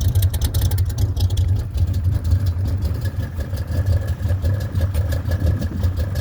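1981 Chevrolet Camaro Z28's V8 idling cold at low revs, running unevenly with no choke, close enough to stalling that the owner thinks it's going to quit.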